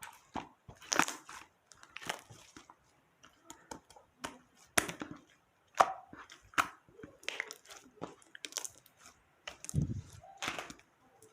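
Slime being squeezed and pressed by hand, giving irregular sharp clicking and popping sounds, with a duller thump about ten seconds in.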